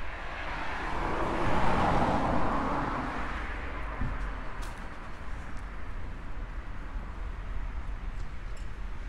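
A car passing by, its tyre and engine noise swelling about a second in and fading away over the next few seconds, over a steady low traffic rumble.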